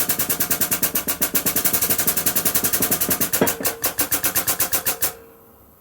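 Air-over-hydraulic press jack pumping rapidly, a fast even chatter of about a dozen strokes a second as it loads up to push a bush out of its bore. It stops abruptly about five seconds in.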